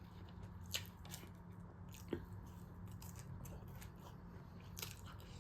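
A person chewing food close to the microphone, faint, with a few soft wet mouth clicks over a low steady hum.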